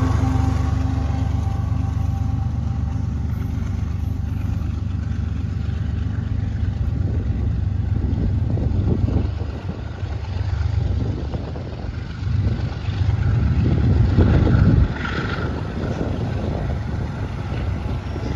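Canadian Pacific freight train with its diesel locomotive going by, a steady low rumble with engine tones that fade in the first couple of seconds. From about eight seconds in, gusts of wind buffet the microphone.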